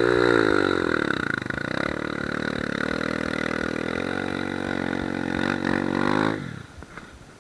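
Motorcycle engine revving up and easing off, then pulling under steady throttle with its pitch slowly climbing for several seconds. The engine sound drops away sharply about a second before the end.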